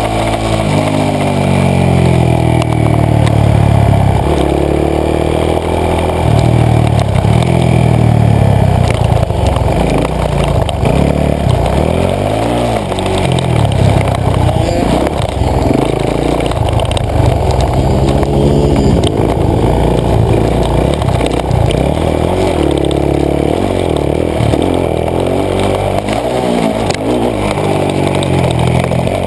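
Supermoto motorcycle engine heard from on board, revving up and dropping back again and again as the bike accelerates through the gears and slows for turns.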